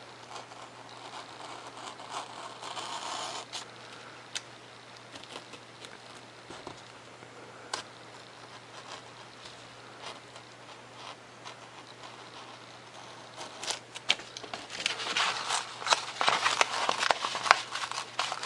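Razor knife cutting through 3 mm Depron foam sheet: faint scratchy crackling with scattered clicks, a short burst of cutting about two seconds in, and denser, louder scratching over the last few seconds.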